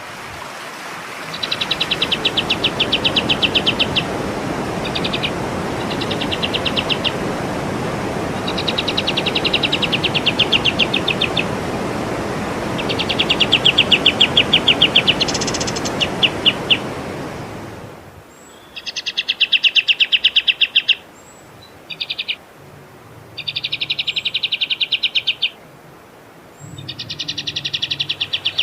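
A songbird singing phrases of rapid, evenly repeated high trills, each a second or two long with short pauses between. A steady hiss of background noise lies under the song until it cuts out abruptly about two-thirds of the way through.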